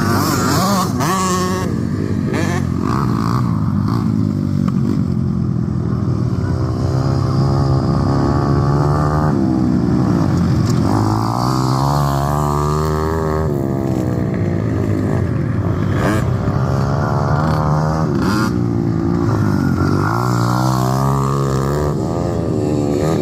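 Pit bike engine revving hard and running through the gears, its pitch climbing and dropping back every few seconds as the rider accelerates and shifts.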